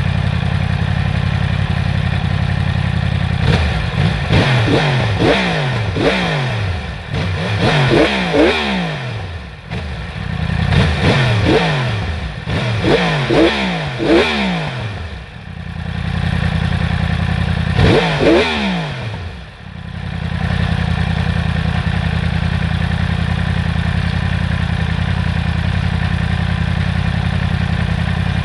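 Yamaha R1's crossplane inline-four running through an Akrapovič slip-on exhaust. It idles steadily, then a few seconds in gets a quick run of about ten sharp throttle blips over roughly twelve seconds. After a short pause it gets one more blip and settles back to a steady idle.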